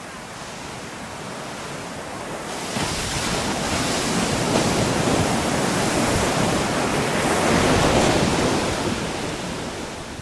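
Ocean surf: a wave surges up about two and a half seconds in, crashes and washes in, then fades off near the end.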